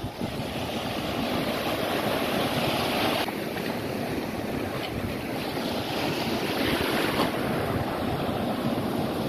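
Surf washing onto a beach, a steady rush of waves that swells and eases, with wind buffeting the microphone.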